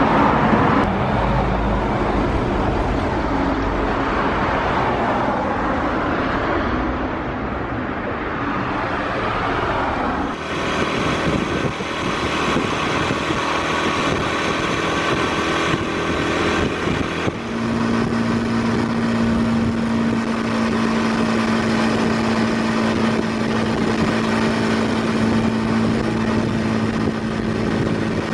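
Honda Super Cub's small single-cylinder four-stroke engine running under way, with wind and road noise. The sound changes abruptly about ten seconds in, and from a little past the middle the engine holds one steady note at cruising speed.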